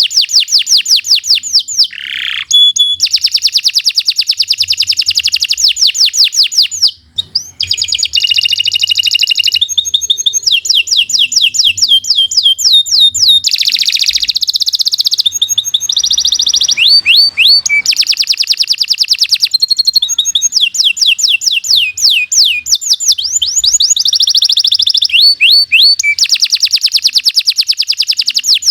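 Domestic canary singing a long, continuous song of fast trills and rapidly repeated notes, with one short pause about seven seconds in.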